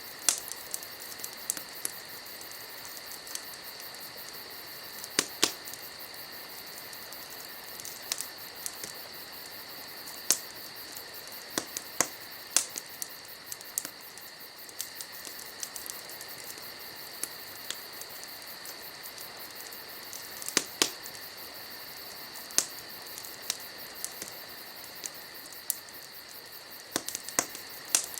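Wood fire crackling, with irregular sharp pops and snaps, over a steady high chorus of night insects such as crickets.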